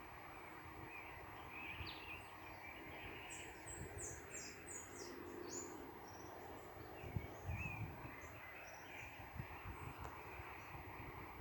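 Several birds chirping, a cluster of short, high, falling notes a few seconds in and scattered calls later, over a steady outdoor background hiss by a river. A low rumble comes and goes underneath, with a brief thump about seven seconds in.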